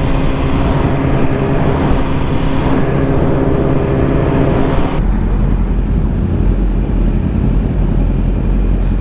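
BMW S1000RR inline-four sport bike running at a steady cruising speed with wind rush, its engine note held even on cruise control. About five seconds in it cuts abruptly to a deep, low rumble of several sport bikes idling together.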